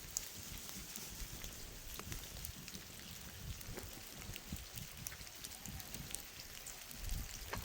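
Steady rain, with many small sharp drop ticks scattered through it over a low uneven rumble.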